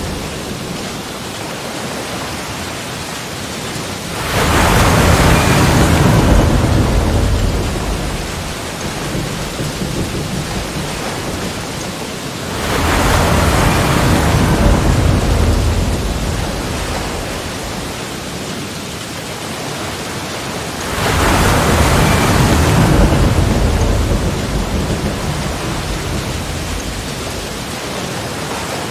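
Ocean waves breaking, three big surges about eight seconds apart, each crashing in quickly and washing back out into a steady hiss.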